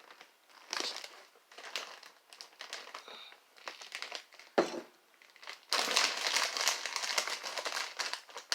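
A plastic chip bag crinkling as it is handled, in short scattered bursts at first and then steadily over the last few seconds. There is a single sharp thump a little past the middle.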